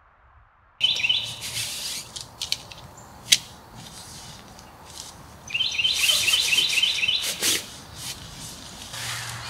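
A songbird sings a quick run of repeated chirping notes, about a second in and again around six seconds. Over it, tent fabric rustles as the tent is pulled from its stuff sack and shaken out, with a couple of sharp clicks.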